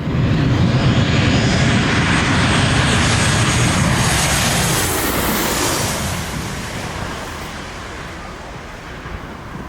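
Airliner passing low overhead, its engine noise loud, then dropping in pitch and fading over the last few seconds as it goes by.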